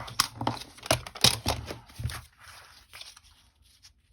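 Paper and craft materials being handled on a work table: a quick run of sharp crackles and taps through the first two seconds, then fainter scattered rustles.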